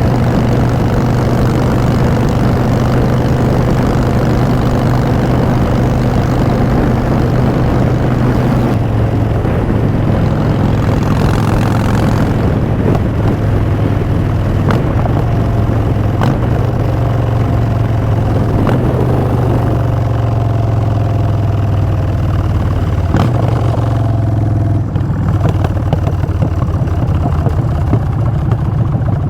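Harley-Davidson Street Bob's V-twin running through Vance & Hines Short Shots exhaust pipes. The engine note shifts in pitch several times, with a few short clicks.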